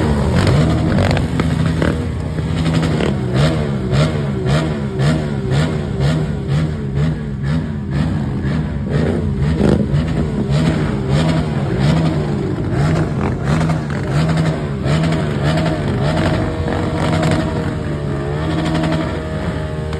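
Several motorcycle engines revving repeatedly, the pitch rising and falling over and over.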